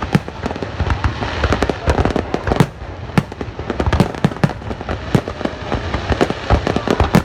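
Fireworks display: a dense, irregular run of bangs and crackles, many bursts overlapping.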